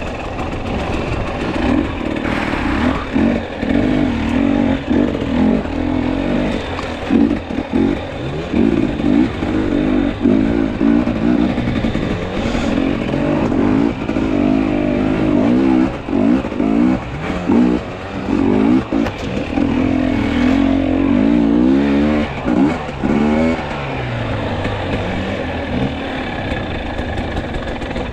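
Two-stroke enduro dirt bike engine (Husqvarna/KTM 250–300 TPI) revving up and down with constant throttle changes while riding a trail, its pitch swinging continually.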